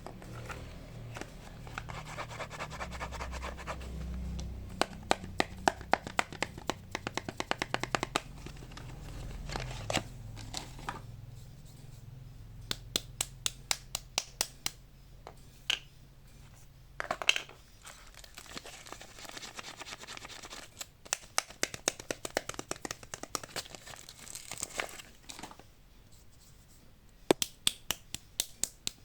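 Soap packaging being handled and unwrapped by hand: crinkling and tearing, with clusters of quick sharp clicks and taps.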